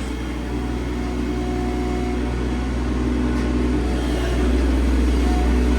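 A machine's engine running steadily, getting a little louder about four and a half seconds in.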